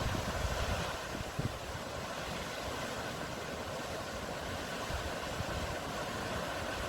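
Steady sea noise from surf and waves, with wind buffeting the microphone in a few brief low thumps.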